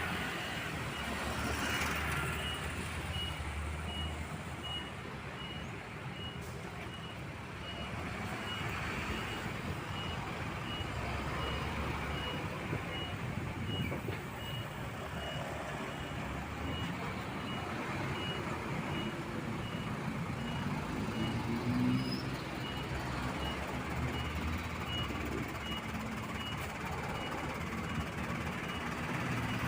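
Truck reversing alarm giving a steady run of short high beeps while the truck backs up, over its idling diesel engine, which rises briefly about twenty seconds in.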